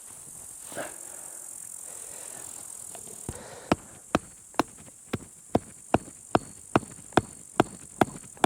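High, steady insect chirring that stops abruptly a little past three seconds in. It is followed by a run of sharp, evenly spaced knocks, a little over two a second, which keep going to the end.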